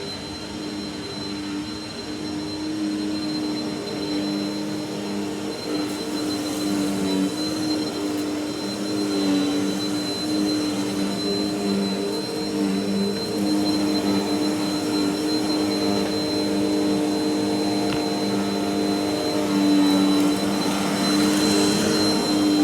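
Vacuum cleaner running steadily: a motor hum with a thin high whine above it, its level swelling and easing slightly.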